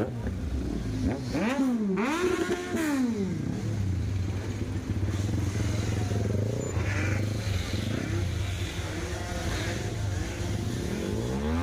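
Superbike engine revved sharply twice, the pitch climbing and dropping quickly each time, then running on at a steady note with smaller revs and another rising rev near the end.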